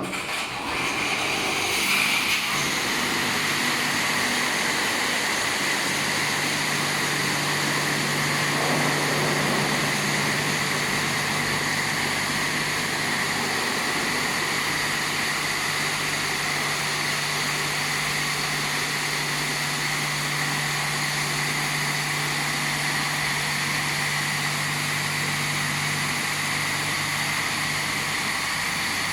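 Touchless car wash machine running: a loud, steady rush that starts suddenly, with a steady low hum joining about six seconds in and dropping away near the end.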